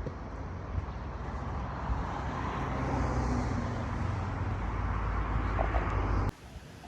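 Motor vehicle running: a steady low engine hum with road noise that swells through the middle and cuts off abruptly near the end.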